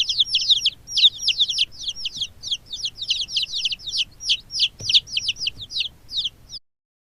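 Baby chicks peeping: a dense stream of short, high cheeps, several a second, each sliding downward in pitch. The peeping cuts off abruptly about six and a half seconds in.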